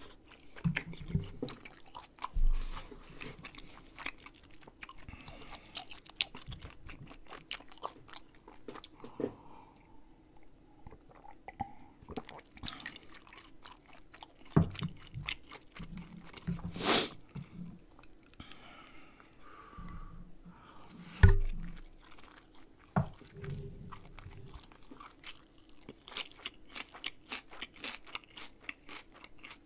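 Close-miked chewing and wet mouth sounds of a person eating rice-cake dumpling soup with rice and kimchi, with crunchy bites and many small clicks. A few louder knocks stand out, the sharpest past the middle.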